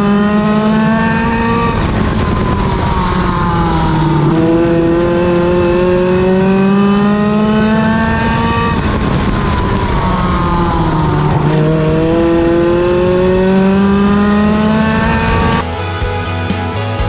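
A lite midget race car's engine running laps on an oval track, its pitch climbing on the straights and falling away into the turns, three times over. Near the end it gives way to rock music.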